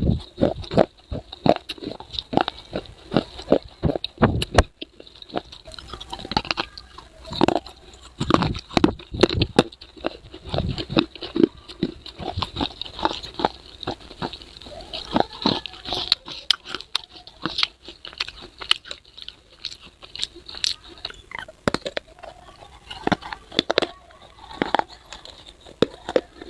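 A person biting and chewing crunchy baked clay: a dense, irregular run of sharp crunches and chewing.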